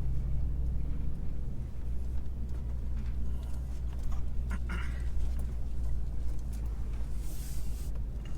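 Steady low rumble of vehicles in a parking lot, with scattered clicks and knocks in the middle and a short hiss near the end.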